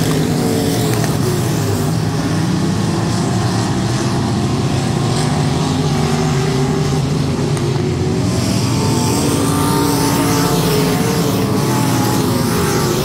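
Race car engines running hard on the track, several engine tones overlapping and wavering slightly.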